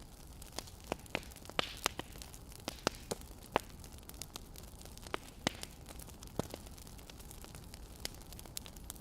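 Burning firewood crackling, with irregular sharp pops, a few louder than the rest, over a steady low rumble and hiss.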